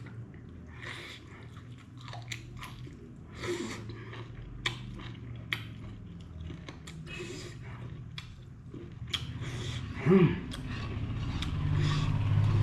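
A person eating chicken liver curry with king chillies: chewing, with irregular crunchy bites and wet smacks, and one louder brief sound about ten seconds in.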